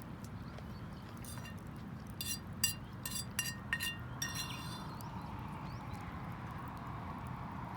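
A run of about six light, ringing clinks, like a utensil striking a tin or cup, over a steady low background.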